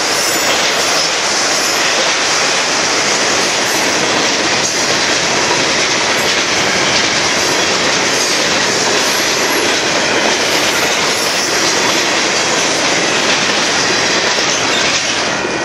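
Freight cars of a Union Pacific mixed freight train rolling past steadily: a loud continuous rumble of steel wheels on rail, with wheels clacking over the rail joints.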